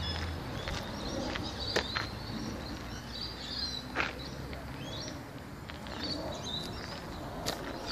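Outdoor street ambience with birds chirping on and off, and a few sharp clicks, the loudest about two and four seconds in. A low hum at the very start fades out within half a second.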